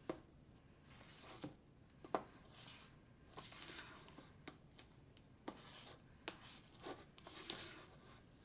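Faint stirring of fluffy slime in a small bowl as saline solution is mixed into glue and shaving cream: soft, irregular scraping with light clicks of the utensil against the bowl, the sharpest about two seconds in.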